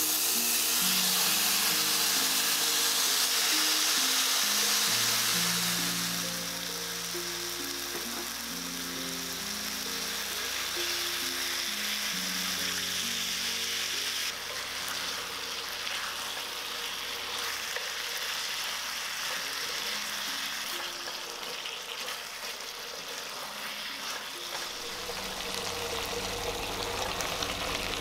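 Marinated chicken pieces dropped into a hot oiled cast-iron pan, sizzling loudly as they hit the oil, then settling after about six seconds into a steadier, quieter frying sizzle.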